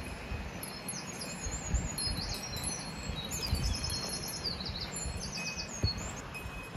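Songbirds singing in quick whistled phrases and rapid trilled runs, over a steady rushing background noise, with a few low thumps.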